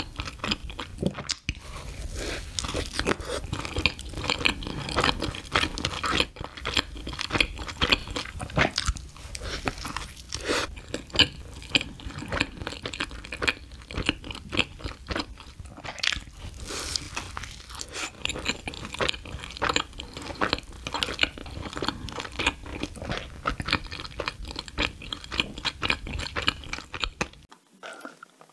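Close-miked eating sounds of someone biting into and chewing a soft, sugar-dusted cream-filled donut, heard as a dense run of many quick small clicks. The sound drops away briefly near the end.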